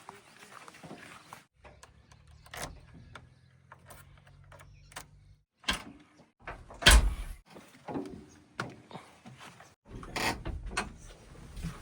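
Heavy earth-moving machinery at work: a diesel engine running low and steady, then a series of loud metallic clanks and heavy thuds, the loudest about seven seconds in.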